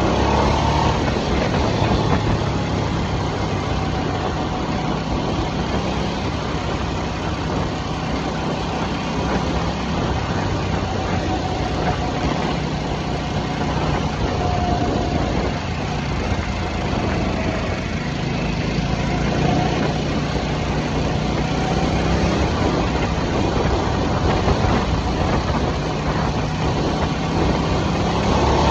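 2023 Harley-Davidson Nightster's liquid-cooled V-twin running steadily while cruising, with a steady rush of noise over the engine note.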